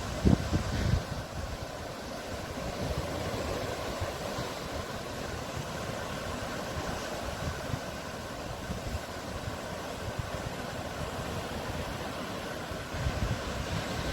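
Sea waves washing steadily, with louder low rumbles in the first second and again near the end.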